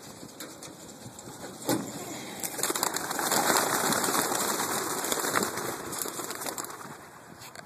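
A flock of racing pigeons taking flight, their wings flapping in a dense flutter that swells a few seconds in and then fades as they fly off.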